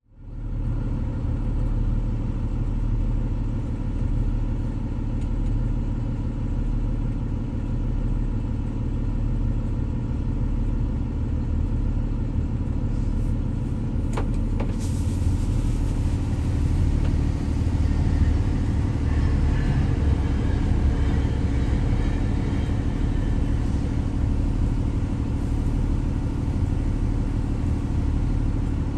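Metrolink passenger train's diesel locomotive running with a steady low rumble and a constant engine tone, with a single sharp click about halfway through.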